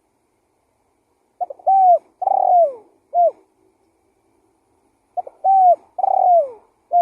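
Spotted dove (tekukur) cooing: a phrase of two quick short notes, a long coo, a longer falling coo and a short closing note, repeated about four seconds later.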